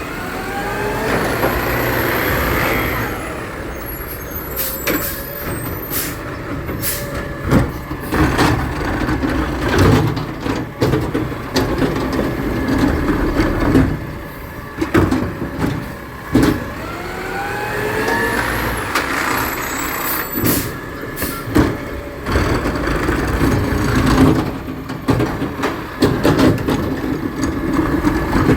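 Garbage truck at work: its engine revs up with a rising whine twice, about sixteen seconds apart, amid repeated clanks and bangs.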